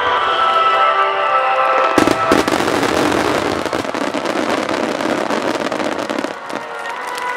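Aerial fireworks bursting: two sharp bangs about two seconds in, then a dense crackling of many small reports for about four seconds, over and after which music plays.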